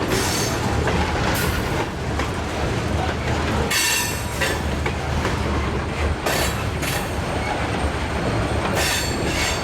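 Freight cars of a CN train rolling past: a steady rumble of steel wheels on rail, broken by sharp wheel clacks at uneven intervals, roughly every one to three seconds.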